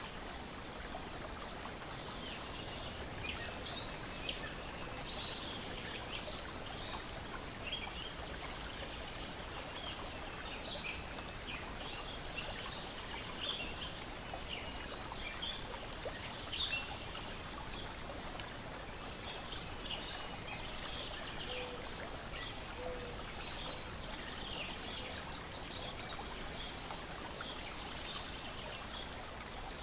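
Steady lapping and trickling water along a lakeshore, with many birds chirping and singing over it.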